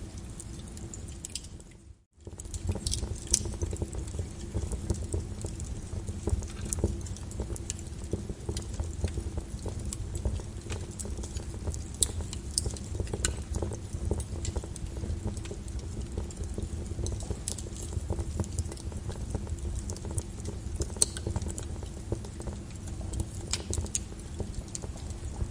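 Molten lava crackling and popping over a steady low rumble, with irregular sharp cracks. The sound briefly fades out about two seconds in and returns.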